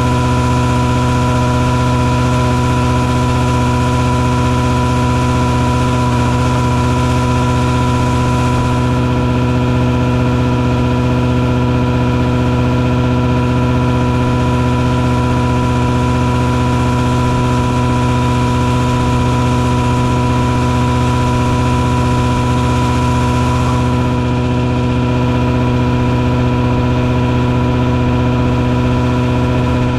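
Mosquito-fogging truck running steadily: a continuous engine drone with a constant high whine from the engine and fogger.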